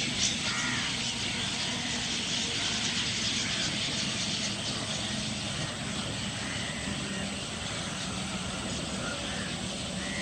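A flock of chestnut-tailed starlings twittering in a dense, continuous chorus of high chirps, over a steady low engine hum.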